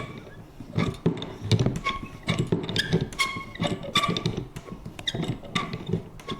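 Vintage paper punch worked over and over: irregular short creaks and squeaks with a clear pitch, mixed with clicks, about one or two a second.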